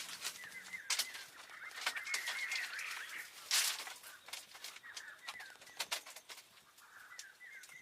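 Birds chirping over and over, with a few sharp knocks or taps in between, the loudest about three and a half seconds in.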